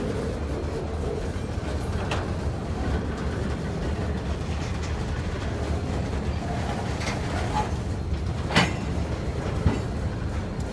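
Freight train cars rolling past at close range: a steady low rumble of steel wheels on rail, with a few sharp clanks, the loudest about eight and a half seconds in and another about a second later.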